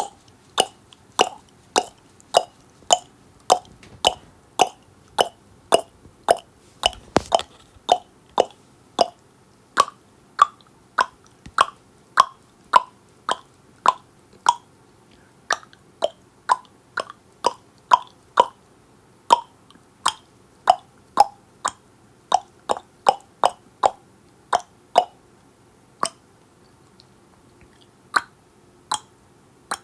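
Tongue clicks repeated steadily, about two a second, each a sharp pop with a hollow ring whose pitch drifts up and down from click to click. The clicks thin out for a few seconds near the end, then pick up again.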